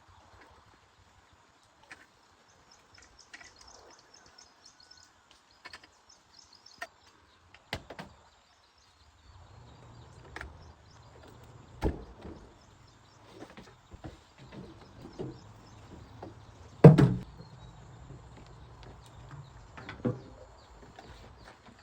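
Scattered knocks and clicks, with one much louder knock about seventeen seconds in, over a faint low rumble that starts about halfway through.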